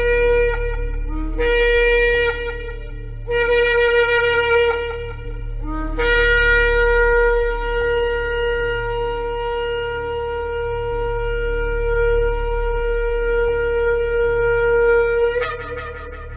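A shofar (ram's-horn trumpet) blowing three short blasts, each catching on a brief lower note before settling on its main pitch. Then comes one long held blast that jumps up in pitch and cuts off near the end. A steady low hum runs underneath.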